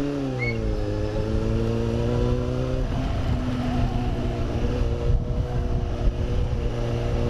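Superbike engine running at a steady engine speed while riding, its pitch easing down over the first second and then holding level, with a constant rush of wind and road noise.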